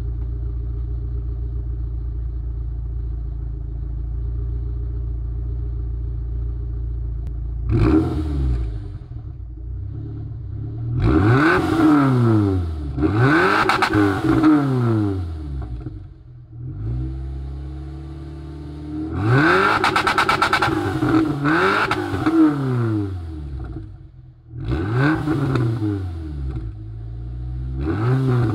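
Citroën Xantia's supercharged 2.0 16-valve four-cylinder engine (Eaton M62 supercharger) heard through a duplex exhaust. It idles steadily for about eight seconds, then is blipped through about half a dozen revs that rise and fall in pitch, some in quick pairs.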